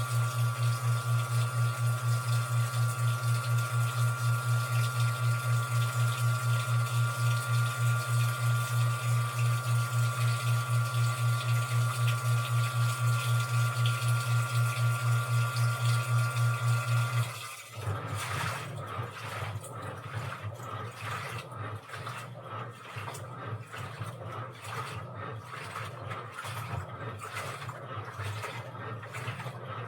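Washing machine with water running in under a loud, steady hum that pulses several times a second. The hum cuts off suddenly about two-thirds of the way through, giving way to a quieter, rhythmic mechanical churning.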